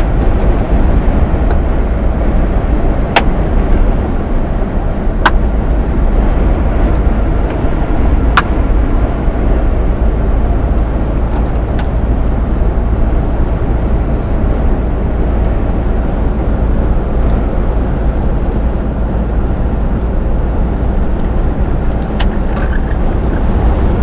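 Truck engine and road noise heard from inside the cab while driving at steady speed, a continuous low rumble, with a few sharp clicks at irregular moments.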